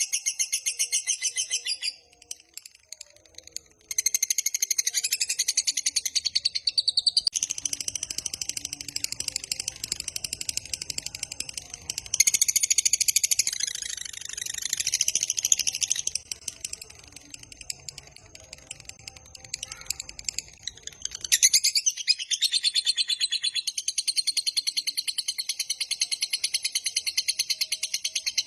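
Lovebird giving its long, fast, high chattering trill ('ngekek panjang'), in long runs of rapidly repeated notes. It breaks off briefly about two seconds in, and goes softer for a few seconds past the middle before picking up again.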